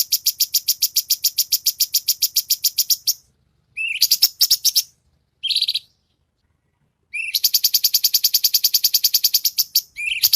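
Cucak cungkok singing in fast runs of sharp repeated notes, about ten a second: a long trill lasting about three seconds, then two short bursts, then another long trill starting about seven seconds in.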